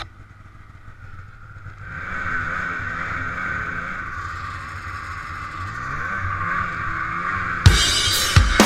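Two-stroke snowmobile engine running, its pitch rising and falling as the throttle is worked, growing louder about two seconds in. Music with drums cuts in near the end.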